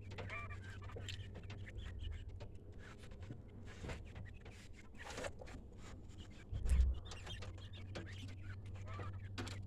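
Young quail chirping in scattered short calls. A brief low thump comes about seven seconds in.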